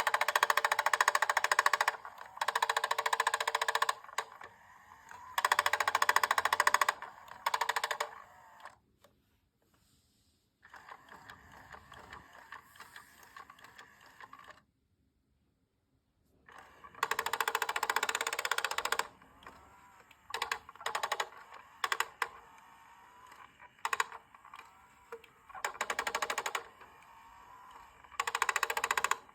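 A rapid mechanical rattling clatter that comes in bursts of one to three seconds, stopping and starting again with short pauses between.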